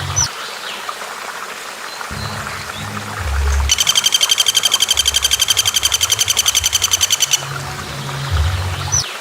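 Recorded songbird calls used as training calls for a shama: a fast rattling trill of about eight high notes a second that runs for nearly four seconds in the middle, with short rising whistles near the start and the end, over a steady hiss like running water.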